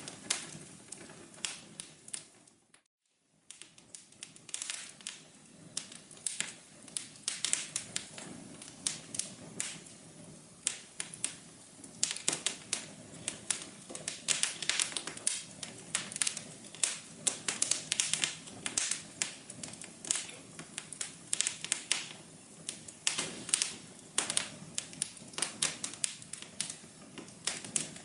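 Wood fire crackling: a dense, irregular run of sharp pops and snaps over a soft hiss. It cuts out briefly about three seconds in, then resumes.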